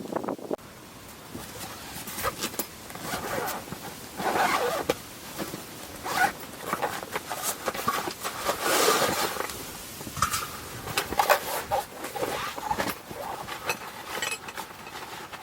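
Gear being handled at close range: a run of rustles, light knocks and rasping, zip-like strokes.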